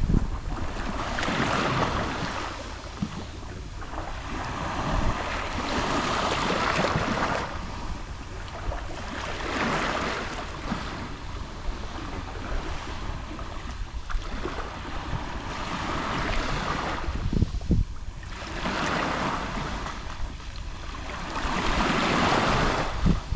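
Gentle Mediterranean waves lapping on the shore, each swelling and washing back every few seconds, with some wind rumble on the microphone.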